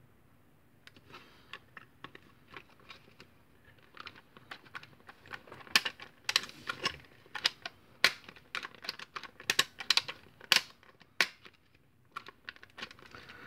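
Irregular plastic clicks and clacks from a Nerf Hammershot blaster and its 3D-printed cylinder being handled and worked. They are sparse at first, then grow louder and busier, with several sharp knocks in the middle.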